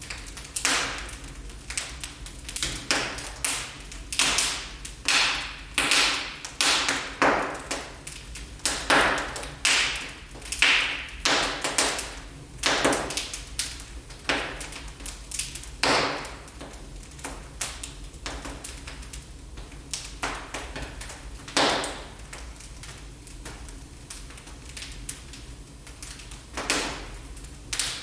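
Wood fire crackling in a fireplace, with irregular sharp pops and snaps over a steady low rumble. The snaps come thick in the first half, thin out in the middle and pick up again near the end.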